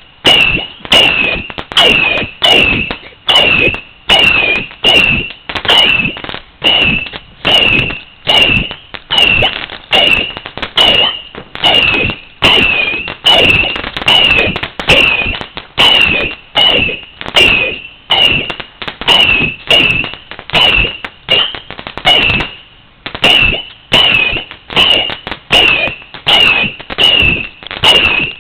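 A 100-shot firework battery (cake) firing shot after shot, about two a second, each a sharp bang with a short whistle after it; there is a brief gap about 22 seconds in before it carries on.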